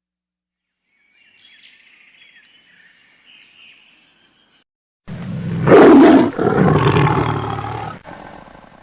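A large animal roaring loudly for about four seconds, starting about five seconds in, after a few seconds of faint high chirping.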